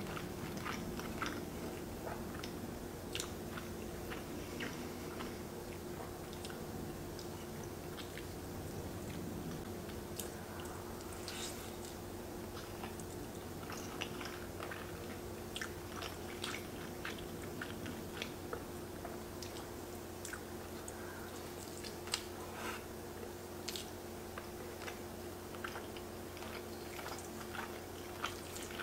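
Close-up chewing of creamy egg noodles and beef: wet mouth clicks and lip smacks scattered throughout, over a steady low hum.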